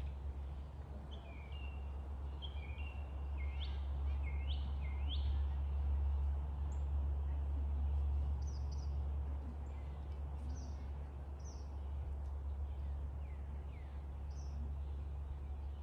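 Songbirds calling over a low steady rumble: a run of quick chirps and rising whistles in the first few seconds, then several short high calls later on.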